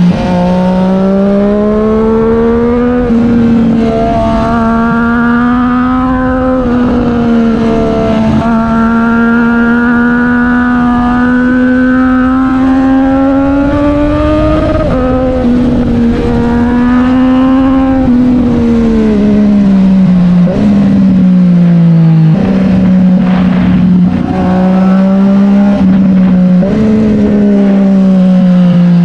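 Triumph Street Triple 765 R's inline three-cylinder engine through an SC Project S1 exhaust, running hard and steadily, with slow rises and falls in pitch and several sudden drops in pitch.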